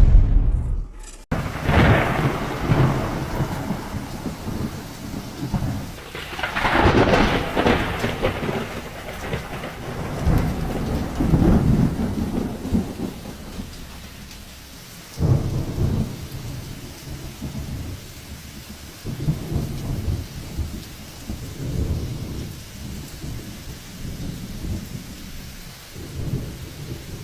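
Thunderstorm: steady rain with repeated long rolls of thunder that swell and fade, the strongest a few seconds in. A loud crack at the very start stops abruptly about a second in.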